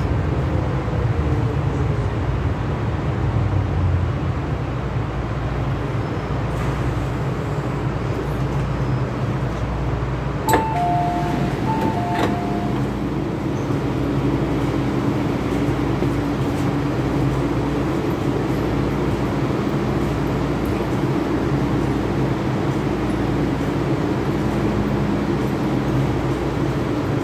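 MTR M-Train car slowing to a stop, a falling whine in the first couple of seconds under steady running noise. About ten seconds in a click is followed by the two-note door chime sounding twice as the doors open, then the car's steady hum carries on at standstill.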